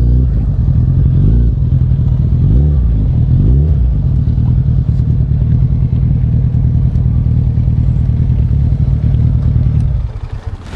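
Motorcycle engine running at low revs, with a few short rising revs in the first four seconds, then running steadily until it cuts out about ten seconds in.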